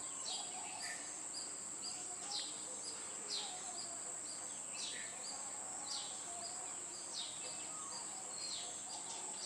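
Birds calling: short high calls that fall in pitch, repeating about once a second, over a steady high-pitched hiss.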